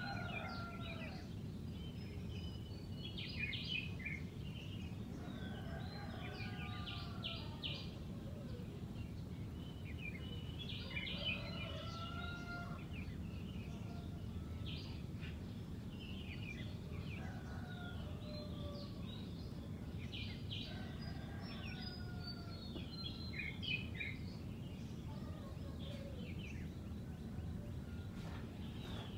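Red-whiskered bulbul singing short, warbled phrases, one every four to five seconds, over a steady low background rumble.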